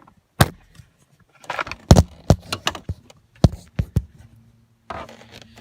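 Irregular sharp metallic clicks and clinks of a socket wrench with an extension working on 10 mm bolts. A low steady hum starts near the end.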